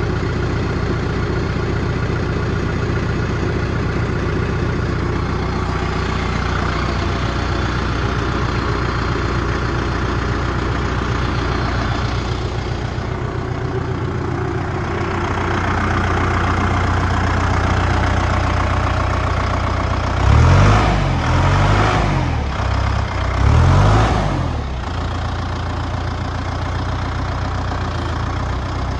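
Deutz-Fahr K120 tractor's four-cylinder turbo diesel engine running at a steady idle, blipped a few times in quick succession about two-thirds of the way through, then settling back to idle.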